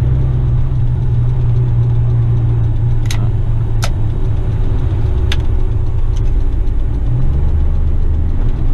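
Western Star tipper truck's diesel engine running, heard from inside the cab as a steady low drone whose note shifts about seven seconds in. A few sharp clicks or rattles come over it, three of them close together in the middle.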